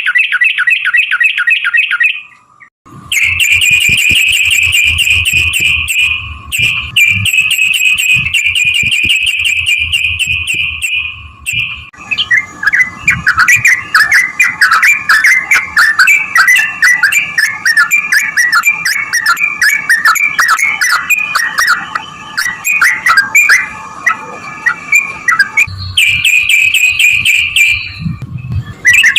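Yellow-vented bulbul (trucukan) singing loudly in long, fast runs of repeated bubbling notes. About twelve seconds in, the song turns into a denser, more varied chatter.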